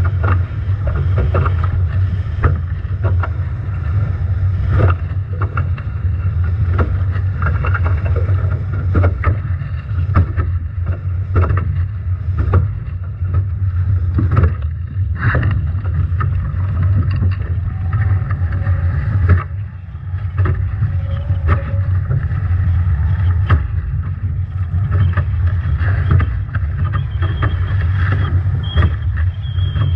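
Nacra 17 foiling catamaran sailing hard in strong wind and heavy waves: loud wind buffeting the microphone as a steady low rumble, broken every second or so by sharp slaps of water and spray against the boat.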